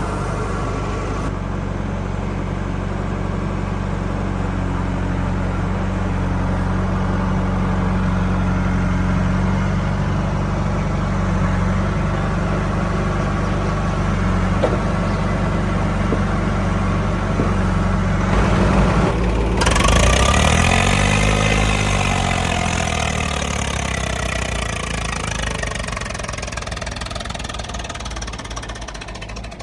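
A heavy diesel engine running steadily, then about two-thirds of the way in its pitch rises and falls as it is revved, before it settles again.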